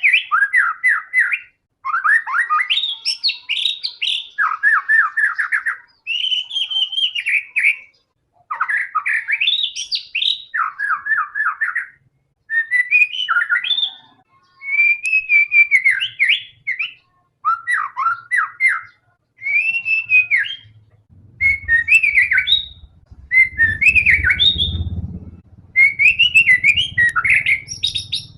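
White-rumped shama (murai batu) singing in full voice: phrase after phrase of whistled notes and fast repeated trills, each a second or two long, with short pauses between. From about three-quarters of the way through, a low rumble runs beneath the song.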